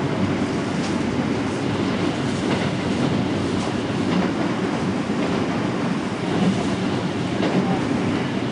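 Keio Line commuter train running at speed, heard from inside the carriage: a steady rumble of wheels on rails with occasional faint clicks.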